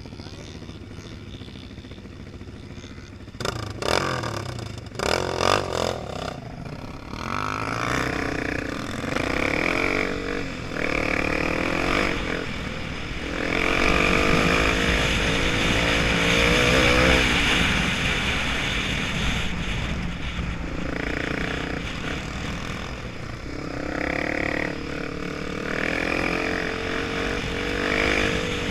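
Honda Tornado 250's single-cylinder four-stroke engine revving and pulling away, its pitch rising and dropping again and again through the gears. A few sharp knocks and rattles come about four to six seconds in, before the engine note picks up.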